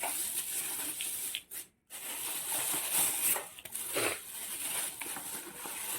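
Firecracker packets being handled and moved aside, wrappers rustling, with a brief cut to silence just before two seconds in.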